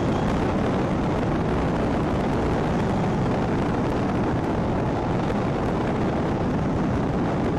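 Steady wind rush and engine and road noise from a Royal Enfield Himalayan motorcycle cruising at speed, picked up by its action camera.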